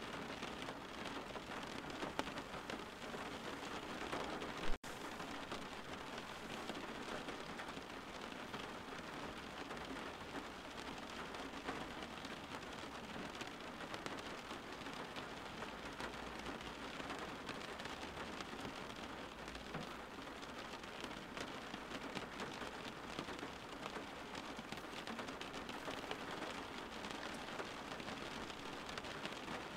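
Steady rain falling, an even hiss of many drops without pause. About five seconds in there is one sharp click with a split-second dropout.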